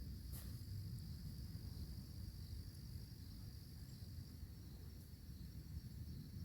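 Night insects trilling steadily and high-pitched, over a low rumble, with one brief click about half a second in.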